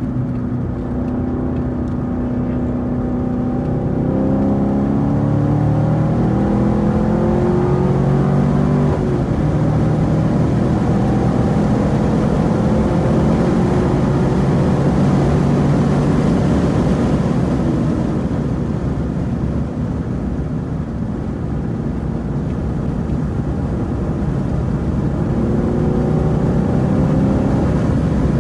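2018 Camaro SS 1LE's 6.2-litre V8 at speed on a race track. The revs climb several times in the first few seconds, level off through the middle, and fall away near the end.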